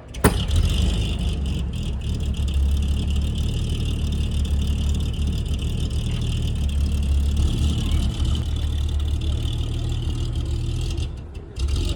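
A car engine running close by with a steady low rumble, starting abruptly just after the start and dipping briefly near the end.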